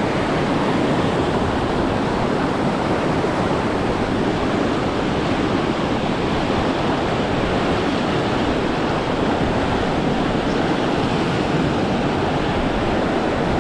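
River water rushing steadily through rapids, a constant even rush with no breaks.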